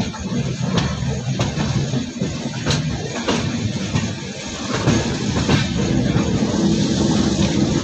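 Passenger train running, heard from the open doorway of a moving coach: a steady low rumble of wheels on rail, with a few sharp clicks about three seconds in as the wheels cross rail joints.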